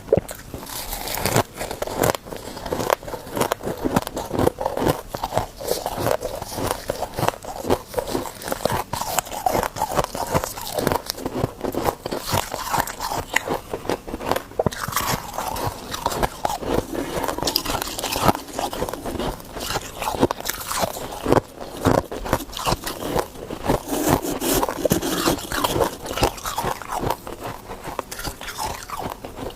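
Ice being bitten and chewed: a dense run of crisp crunches and cracks.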